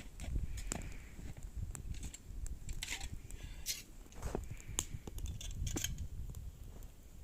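Irregular clicks and rustles of objects being handled, over a low rumble.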